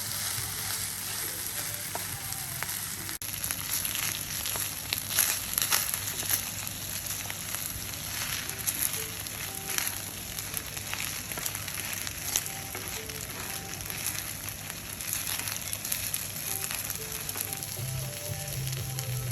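Food frying in a hot pan: a steady sizzle with sharp crackles and pops scattered through.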